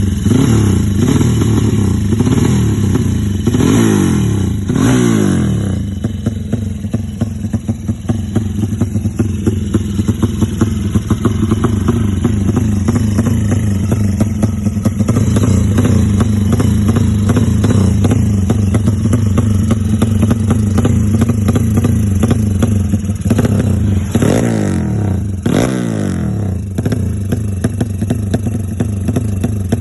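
A newly set-up engine running steadily, revved up and back down a few times in the first five seconds and twice more around 24 to 26 seconds in.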